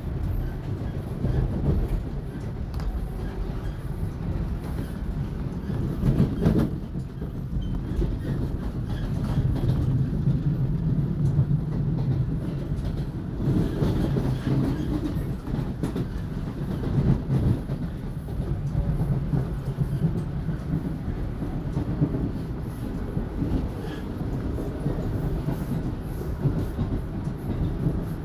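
Toronto subway car running between stations, heard from inside: a steady low rumble, with the wheels clicking over the rail joints and a louder bump about six seconds in.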